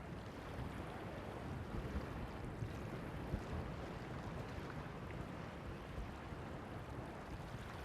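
Low, steady noise of surf and wind on the microphone, with no firework bursts.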